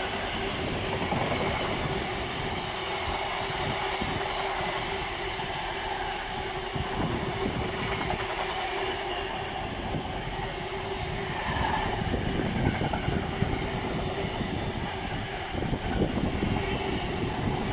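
Container wagons of a Class 66-hauled freight train rolling past at the platform edge. The wheels give a continuous rumble over a faint steady hum, with sharper knocks over the rail joints coming more often in the last few seconds.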